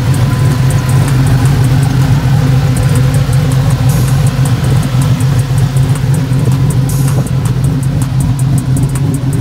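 Swapped fuel-injected V8 in a G-body Chevrolet Monte Carlo, idling steadily with its hood open.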